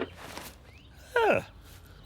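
A single short vocal call about a second in, its pitch dropping steeply.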